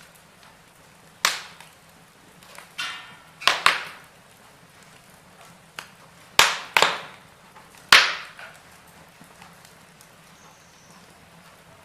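Wood fire in a fireplace crackling, with a handful of sharp pops from the burning logs, each dying away quickly. The loudest pops come in pairs around the middle and a little after.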